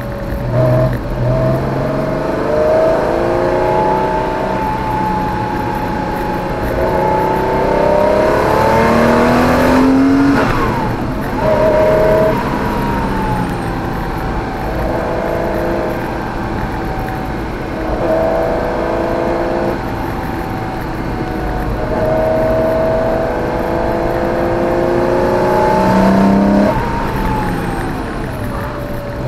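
Porsche 914/6's air-cooled flat-six engine heard from inside the cabin, driven hard on track: the revs climb in long pulls and drop sharply at gear changes, a few times.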